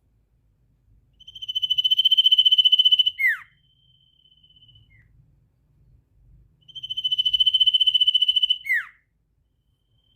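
A sirtu giving its rapid trill ('ngetir'): a fast, whistle-like trill on one high pitch, held for about two seconds and ending in a quick downward slide. The trill comes twice, about five seconds apart, with fainter trills in between.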